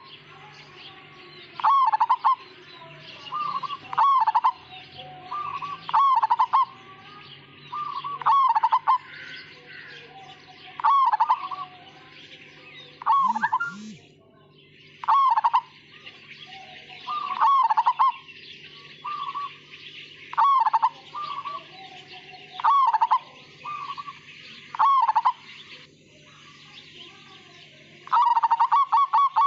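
Zebra dove (perkutut) of the Majapahit line cooing: short phrases of quick, rattling coo notes repeated about every two seconds, breaking into a longer, faster run of notes near the end.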